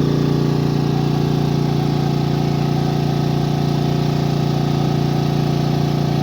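Generator engine running steadily, a constant, unchanging engine hum.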